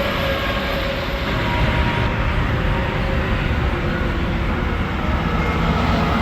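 Heavy highway traffic: semi trucks passing on the interstate, a steady rumble of engines and tyres, with a tone that slides slowly down in pitch as a truck goes by.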